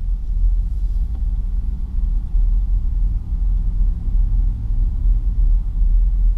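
Pickup truck under way, heard from the dash inside the cab: a steady low rumble of engine and road noise.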